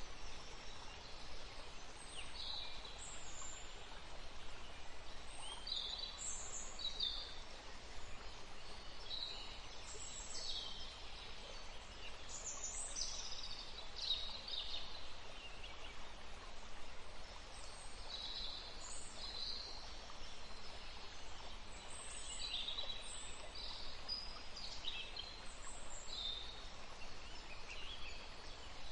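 Songbirds calling and singing in short repeated phrases over a steady rush of a forest stream.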